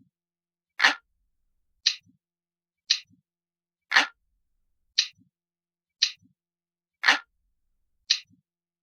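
Looped analog clock ticking about once a second, eight ticks in all. Every third tick is heavier and fuller, and the two between are lighter and sharper.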